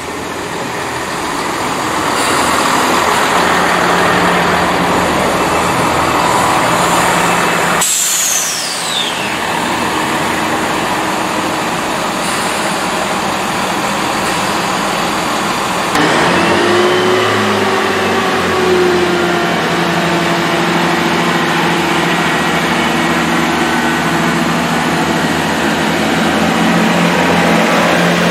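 GWR Networker Turbo diesel multiple unit rolling along the platform, with a brief falling squeal about eight seconds in. About halfway through, the sound changes to the steady drone of the train's underfloor diesel engines as it moves off, with a whine that rises and then falls away.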